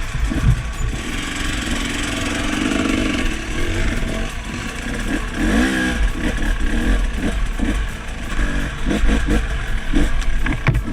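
Off-road motorcycle engine revving under throttle: a held note, a rising rev about halfway through, then short choppy bursts of throttle.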